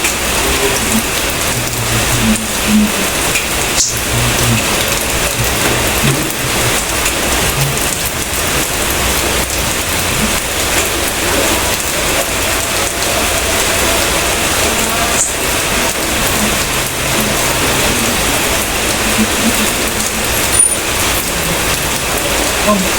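Steady rain falling on a surface, a dense, even hiss of drops that does not let up.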